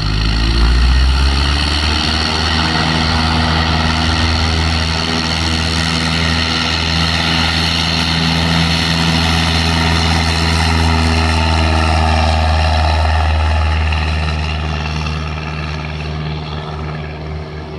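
Cessna light airplane's piston engine and propeller at full takeoff power, a loud steady drone that swells in the first second and fades over the last few seconds.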